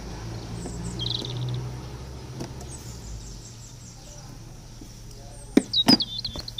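Small birds chirping in the background: a short high trill about a second in, and a run of quick warbled chirps near the end. Two sharp knocks just before the chirping are the loudest sounds.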